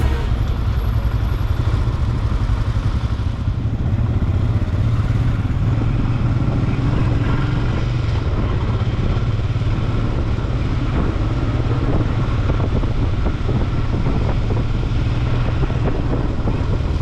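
Royal Enfield Himalayan's 411 cc single-cylinder engine running at a steady pace while riding, a low hum under wind and road noise.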